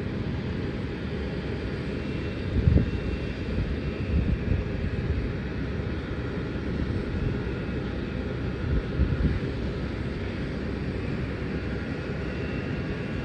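Distant jet airliner noise from a landing Boeing 787 Dreamliner: a steady low rumble of engines with a louder swell about three seconds in.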